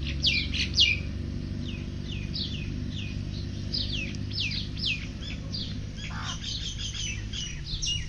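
Several birds chirping, with many quick downward-sweeping calls one after another, over a steady low hum.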